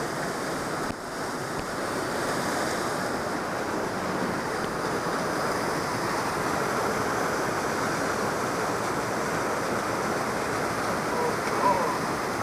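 Powerful glacial waterfall pouring down, a steady, even rush of water.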